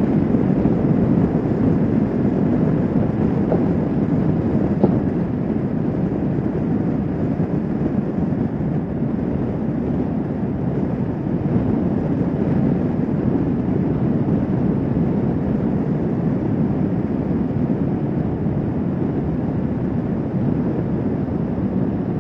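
Steady motorcycle riding noise from a Kawasaki Vulcan S 650 at cruising speed: wind rushing over the microphone mixed with engine and road noise, even throughout.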